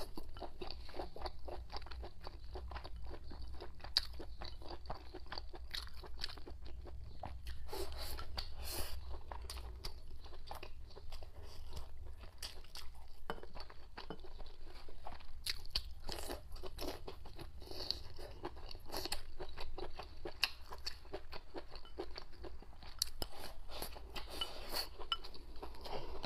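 A person chewing and crunching spicy malatang hot pot food close to the microphone, including chewy beef tripe: quick, irregular crunches and mouth clicks with no pause.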